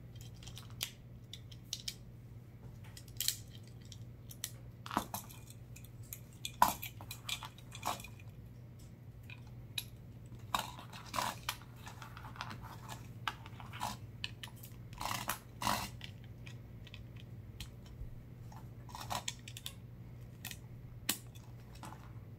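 Plastic Lego bricks clicking and clattering as they are handled and snapped together: irregular sharp clicks, some in quick clusters, over a low steady hum.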